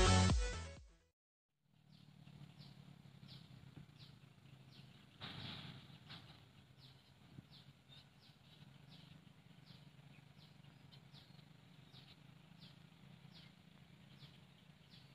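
Electronic dance music fading out in the first second, then faint rural outdoor ambience: a bird repeating a short falling chirp again and again, about three times every two seconds, over a low steady hum, with a brief louder rush about five seconds in.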